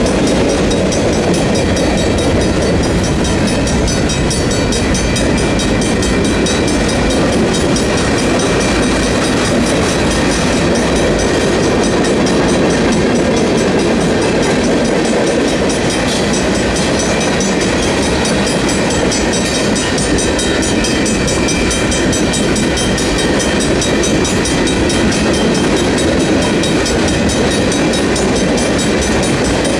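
Freight train cars, mostly tank cars, rolling steadily through a grade crossing with clickety-clack wheel noise over the rail joints. The crossing's warning bells ring continuously underneath.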